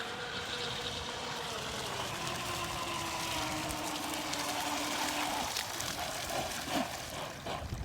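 Brushless electric motor of a Pro Boat Geico 36-inch RC catamaran whining as the boat runs on the water, its pitch slowly falling and fading out about five seconds in, over a steady hiss.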